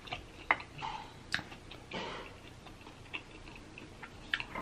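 Close-miked chewing of a birria quesadilla: scattered soft mouth clicks and wet smacks, the sharpest about half a second and just over a second in.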